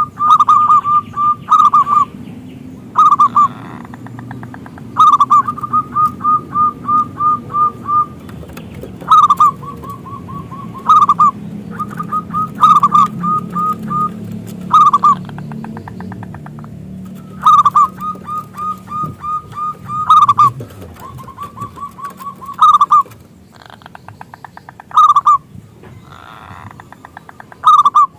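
Zebra dove (perkutut) cooing in repeated phrases, each a loud opening note followed by a quick run of short coos, with short pauses between phrases. It is a local perkutut song of the kind played as a lure to set other perkutut singing.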